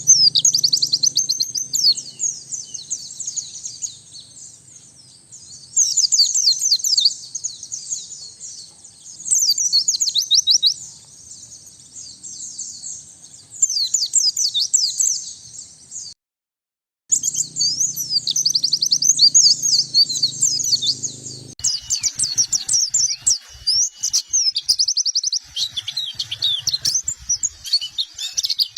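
White-eye (pleci) song: quick, high twittering phrases in bursts of a second or two. The sound cuts out for about a second a little past halfway, and from about 22 s on the song runs more continuously over a hissier background.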